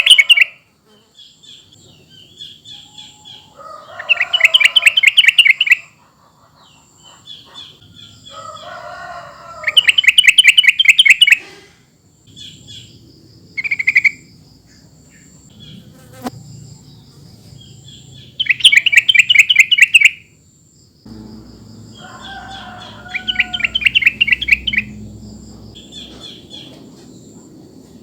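Yellow-vented bulbul (trucukan) song: loud bubbling phrases of rapid notes, each about two seconds long, repeated five times at intervals of five to eight seconds. Faint high, steady insect-like trills run between the phrases.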